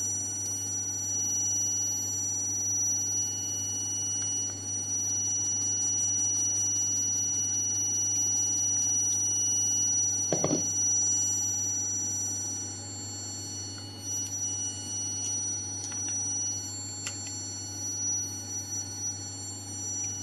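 Vibratory stress relief exciter running: a steady low hum with several constant high-pitched whining tones. A brief low knock comes about halfway through, after which it runs slightly quieter.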